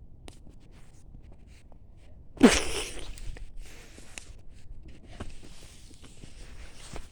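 Bonfire crackling with scattered small pops, and one sudden loud burst about two and a half seconds in, falling in pitch and fading over about half a second.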